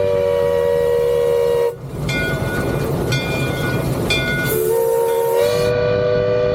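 Steam whistle of a three-truck Shay geared locomotive, J. Niles Lumber #5, blowing long: a steady chord of several tones. Not quite two seconds in it breaks into a hiss with three short higher toots, then the full chord sounds again about 4.5 seconds in and holds.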